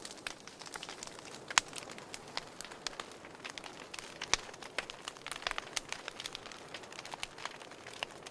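Wood fire burning in a fireplace: a soft steady hiss with irregular crackles and pops, the sharpest snap about one and a half seconds in and another a little past four seconds.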